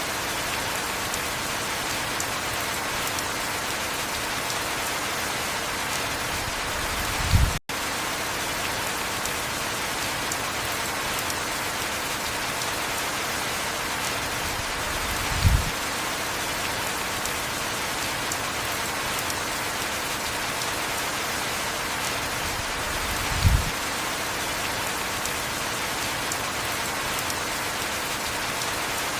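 Steady heavy rain falling, an even hiss of drops. Three short low thumps come about eight seconds apart, and the sound cuts out for an instant right after the first.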